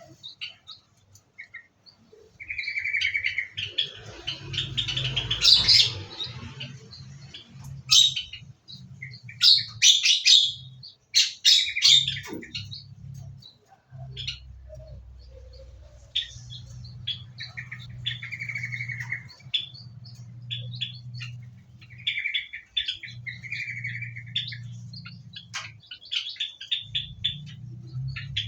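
Several small aviary songbirds chirping and calling, with short repeated chirps and brief trills overlapping one another. A low hum comes and goes underneath, and there is a short rustling burst a few seconds in.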